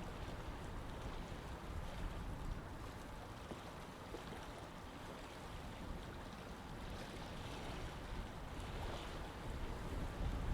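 Water flowing in a canal, a steady rushing with a low rumble of wind and distant urban background, swelling a little near the end.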